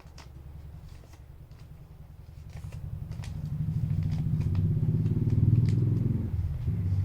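Low engine rumble of a motor vehicle, swelling over a few seconds to its loudest about five and a half seconds in, dropping off suddenly just after six seconds, then picking up again. Faint light ticks sound over it.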